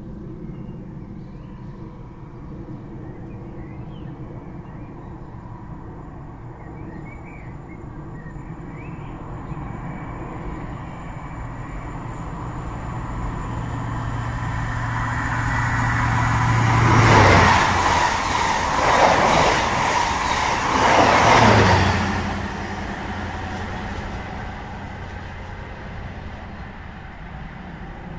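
A train passing: a rumble that builds, is loudest in three surges for about five seconds, then dies away.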